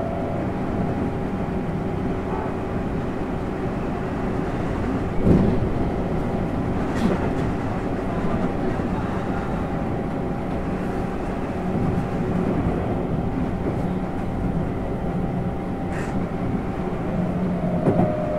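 Tokyu 7700 series commuter train running, heard from the front of the train: a steady running noise with wind noise in the crew cab, and a few sharp clicks from the wheels and track.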